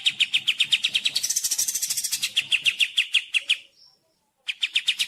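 Songbird calling in a rapid, even train of sharp repeated chip notes, about ten a second, with a harsher, higher passage about a second in; the calling stops briefly near the end and starts again.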